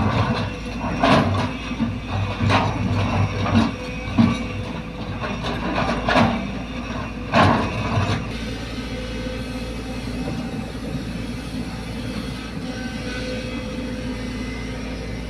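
Sumitomo hydraulic excavator working: its diesel engine runs steadily under a series of sharp metal clanks over the first half. The clanks stop about eight seconds in and the engine runs on steadily.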